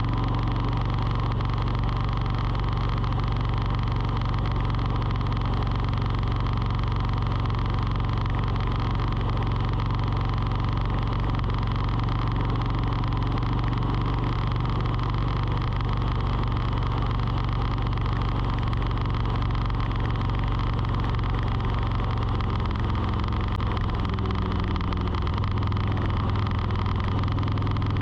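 Steady mechanical hum made of several held tones, its pitch stepping slightly lower a little before the end.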